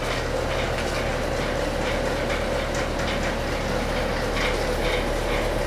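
A steady machine hum with a held whine, and faint small ticks scattered through it.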